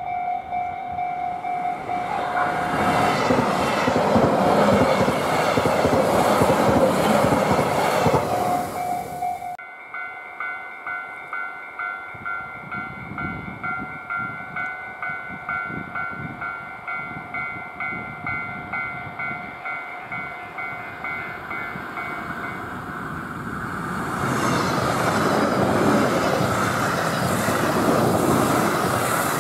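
JR Hokkaido 733 series electric train running in over snowy track, its running noise building over the first several seconds, with a level crossing warning bell sounding. After a cut the bell rings on in a steady pulse of about one and a half strokes a second as the train comes into the station. Near the end the train's running noise swells again as it passes close by.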